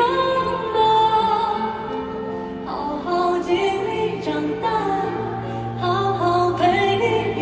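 Live pop ballad: a high, clear male singing voice holding long, gliding melodic lines over instrumental accompaniment.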